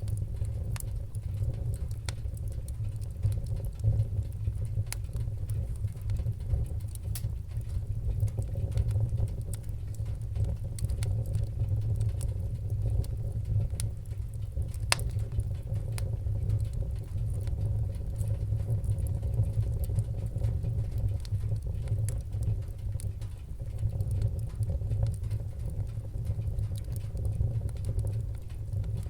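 Wood fire crackling: frequent small, sharp pops and ticks scattered irregularly over a steady low rumble.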